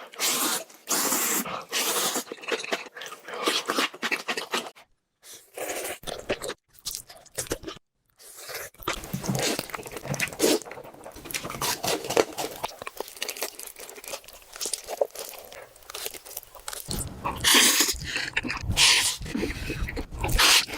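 Close-miked eating sounds, chewing and crunching with wet smacks, broken by several abrupt cuts between clips.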